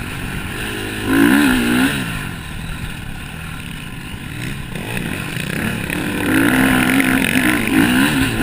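Motocross bikes racing on the track, their engines revving up and down as they pass. The engine sound is loudest about a second in and again from about six seconds in.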